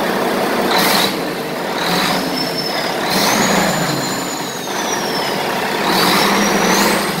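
Volvo D13 diesel engine running steadily with no knocking or gear rattle from the timing gear train, the sign that the loose bull gear has been fixed. A few short hisses and a high whistle that rises and then falls sound over the engine.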